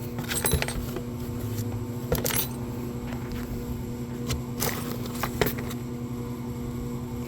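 Small metal fasteners clinking as a hand rummages through a box of loose car parts, in a few scattered clicks, over a steady low hum.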